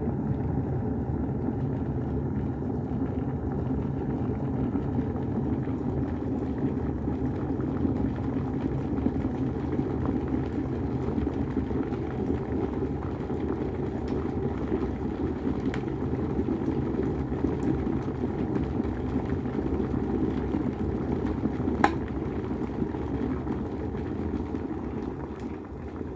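Polaris PWK 1803C electric kettle heating water toward the boil: a steady low rushing noise of the water, with one sharp click near the end.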